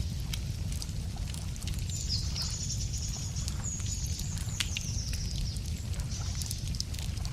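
Wood campfire crackling, with frequent sharp pops over a low steady rumble. A bird sings a high, thin trill from about two seconds in to about five seconds in.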